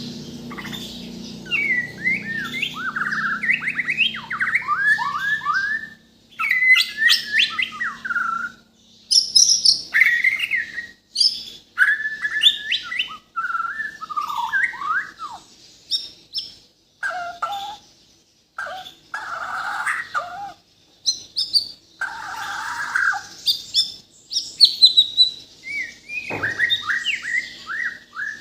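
Bornean white-rumped shama (murai batu) singing hard: a long run of varied, quick whistled and chattering phrases broken by short pauses, packed with mimicked calls of other birds. A faint low hum sits under the first few seconds.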